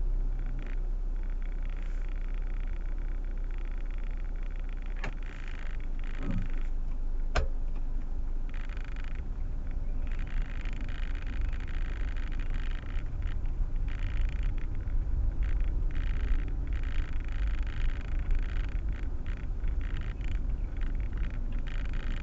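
Steady low rumble of the Proton Waja CPS 1.6 heard from inside its cabin, with a changing hiss above it and two sharp clicks about five and seven seconds in.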